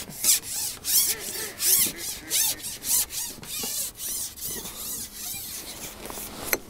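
Repeated rasping rubs, about two a second, fading after about four seconds, with one sharp click near the end.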